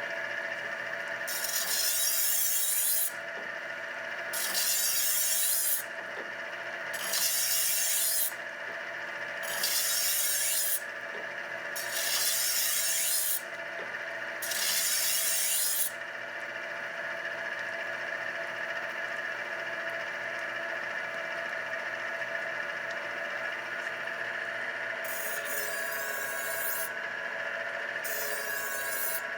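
Tru Hone HR8 knife honer running with a steady motor hum while a knife blade is drawn through its spinning honing wheels: six rasping strokes in a steady rhythm in the first half, then two more near the end.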